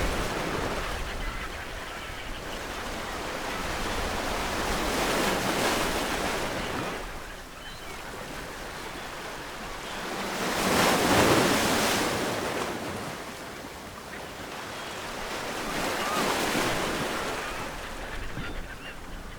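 Ocean waves breaking on a shore, each surge of surf building and washing back about every five to six seconds, the loudest about halfway through.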